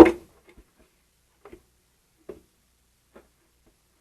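Hand tools and metal parts on a VW air-cooled engine's fan housing: one sharp knock at the start, then a few faint clicks about a second apart.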